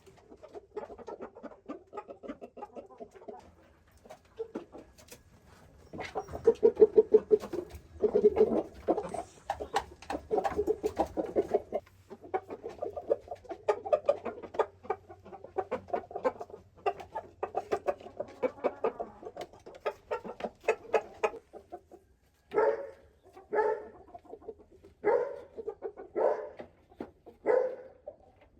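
Domestic chickens clucking in long runs of quick pulsed calls, then about six separate calls roughly a second apart near the end.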